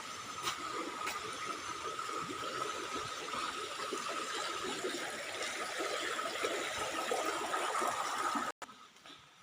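Steady rush of flowing water with a constant high drone over it; it cuts off abruptly near the end, leaving a much quieter background.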